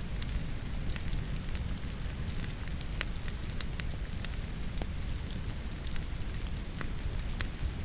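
Logs burning in a fireplace, crackling with many irregular sharp pops, layered over the steady patter and low rumble of falling rain.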